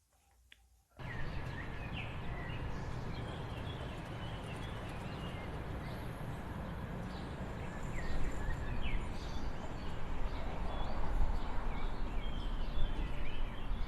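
Outdoor ambience with birds chirping over a steady low background noise, cutting in abruptly about a second in after near silence.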